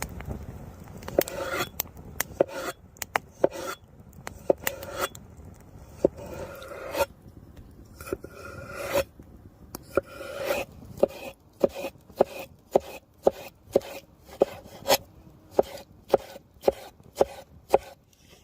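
Rough scraping and rubbing mixed with many short, sharp knocks, irregular at first and then coming about once or twice a second.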